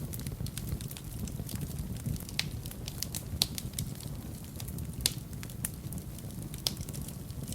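Wood fire burning in a fireplace, crackling with irregular small snaps and three louder pops, over a steady low rumble.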